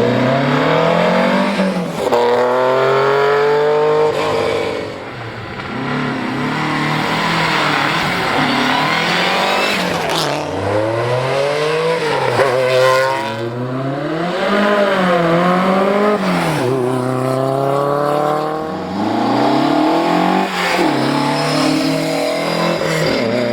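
Rally car engine revved hard through the gears as the car passes. The pitch climbs and drops sharply at each gear change, about every two to four seconds, with a sharp crack about ten seconds in.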